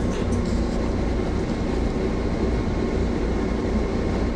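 Steady low rumble and hum inside the cab of a stopped Metro-North electric commuter train.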